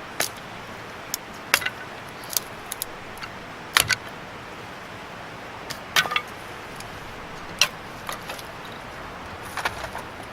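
Irregular sharp knocks and clinks, a few of them with a brief ring, spaced a second or two apart, from firewood being handled.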